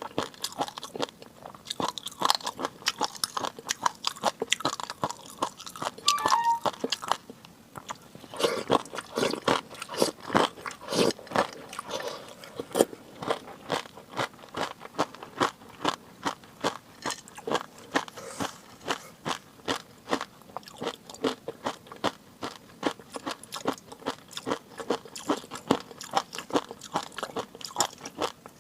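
Close-miked eating: steady chewing with a fast run of small crunches and wet mouth clicks, with a brief faint squeak about six seconds in.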